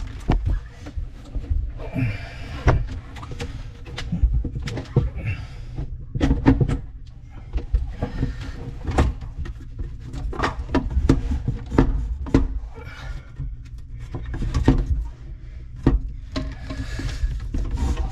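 Irregular knocks, clicks and scraping as parts and tools are handled inside a sink cabinet, over a low rumble.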